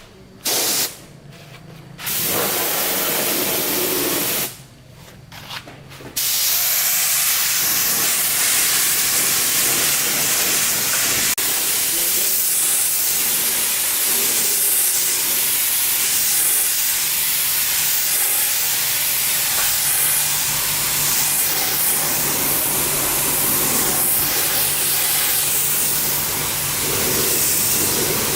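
Hissing spray, like a jet of compressed air or water. It comes in two short bursts and then runs steadily from about six seconds in, with a low steady hum under it near the end.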